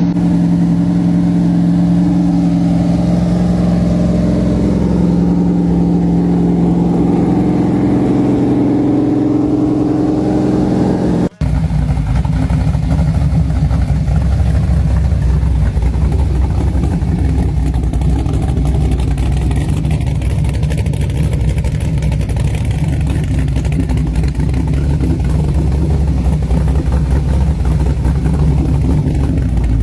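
Small-block Chevrolet 355 V8 derby engine running on a run stand, holding a steady speed for about eleven seconds. After a sudden brief break it runs lower and choppier for the rest.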